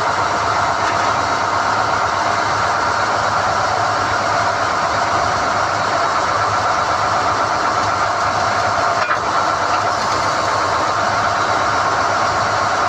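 SDH-1600 core drilling rig running steadily under power, with one brief click about nine seconds in.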